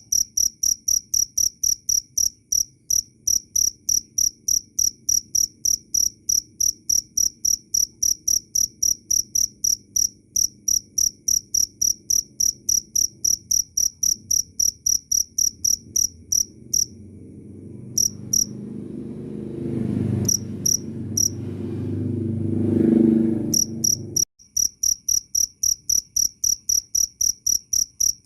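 Cricket chirping, a rapid, even rhythm of high, clear pulses. Past the middle the chirping mostly falls silent while a low rumble swells for several seconds and then cuts off abruptly, and the chirping starts again.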